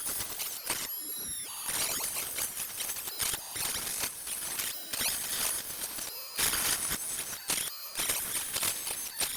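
Close-up scraping, squeaking and clicking of small plastic parts being worked by hand, with a squeal near the start.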